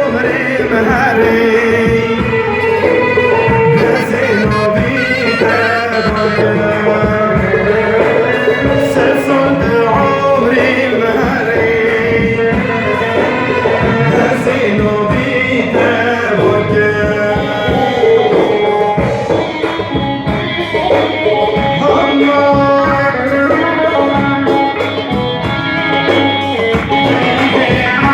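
Middle Eastern folk song: a voice singing over plucked-string accompaniment and light percussion.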